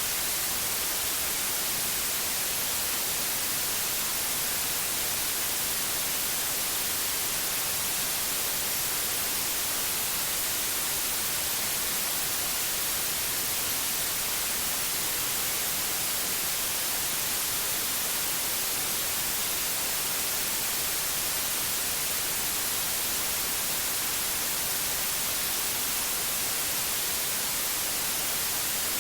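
Synthetic white noise: a steady, even hiss, unchanging throughout, with more energy in the high frequencies.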